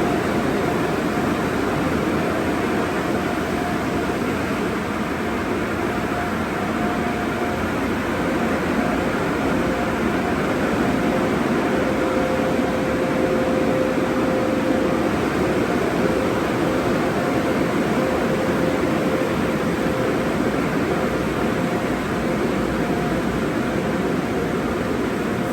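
Automatic express car wash tunnel equipment running: a steady rush of spraying water and machinery, with a faint steady hum.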